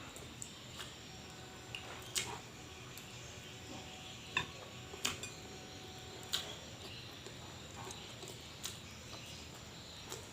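Mukbang eating sounds: a person chewing, with irregular soft clicks and smacks of the mouth, the sharpest about four and a half, five and six and a half seconds in.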